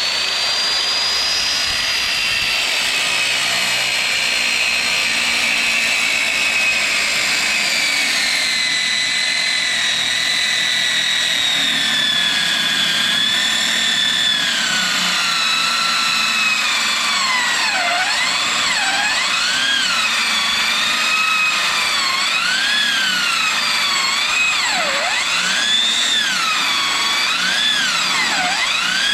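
A motor running steadily with a high whine whose pitch drifts slowly down, then swings up and down again and again over the second half.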